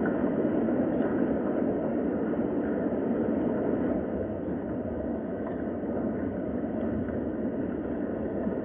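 Steady rain, an even noisy hiss with no breaks.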